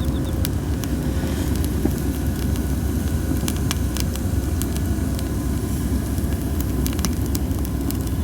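Cherry-wood campfire crackling with scattered sharp pops, over a heavy low rumble of strong wind on the microphone. The under-dried logs hiss in the fire.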